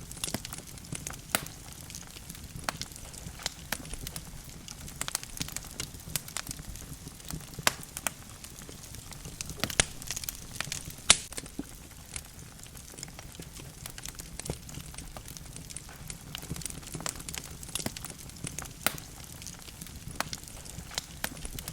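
Wood logs burning in a fireplace, with a low steady rush of flame. Irregular crackles and pops sound throughout, and the sharpest pop comes about halfway through.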